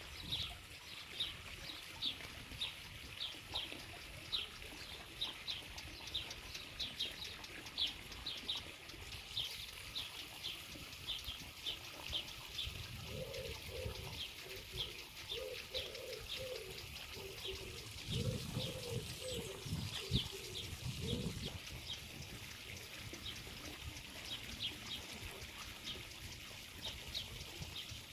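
Songbird chirping, short high chirps repeated about two to three times a second throughout. In the middle, a dove coos in two runs of low repeated notes.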